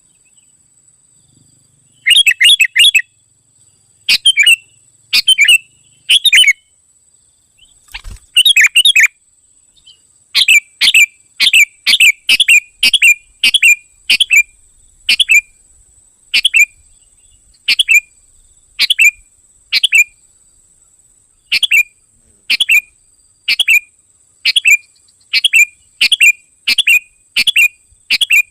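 Sooty-headed bulbul (kutilang) giving loud, sharp chirping calls, a lure call for the species. The calls start about two seconds in, first in quick clusters of three or four notes, then as single notes repeated about once a second.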